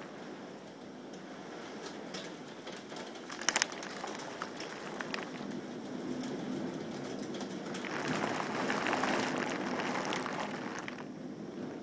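Steady rain hissing during a thunderstorm, with a quick cluster of sharp clicks about three and a half seconds in. The hiss swells louder about eight seconds in and eases off again by about eleven seconds.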